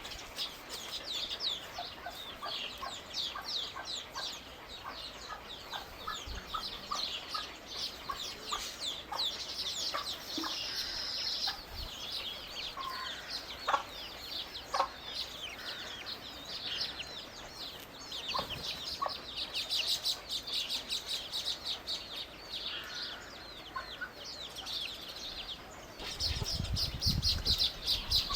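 Many small birds chirping in a dense, continuous chatter of quick, high notes, with a low rumble near the end.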